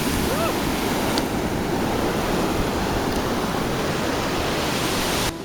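Pacific Ocean surf washing onto the beach, a steady rush of breaking waves that cuts off abruptly near the end.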